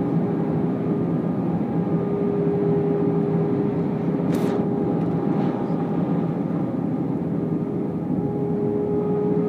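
Steady cabin noise of an Airbus A319 in flight: an even rush of engine and air noise with a few steady humming tones. A short sharp click comes about four seconds in, with a fainter one a second later.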